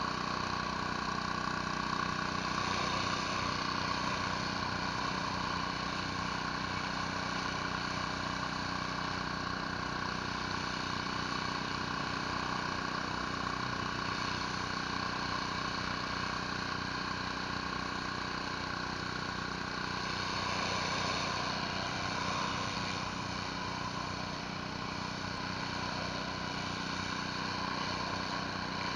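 Pressure washer's petrol engine running steadily, with the hiss of water spray from a surface cleaner working over concrete.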